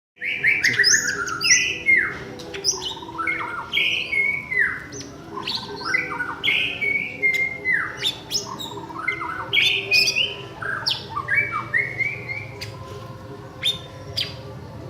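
Cucak ijo (green leafbird) singing a rapid, varied song of loud whistled notes, many sliding downward, mixed with sharp chips.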